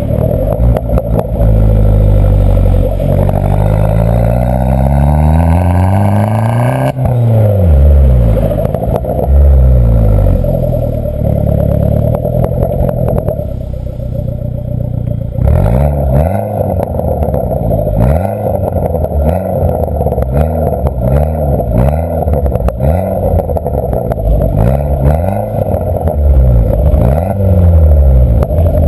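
Abarth 500's 1.4 T-Jet turbo four-cylinder running through a G-Tech exhaust with a 200-cell sports cat. The revs climb steadily for several seconds and drop sharply about seven seconds in. In the second half the throttle is blipped repeatedly, the revs rising and falling about once a second.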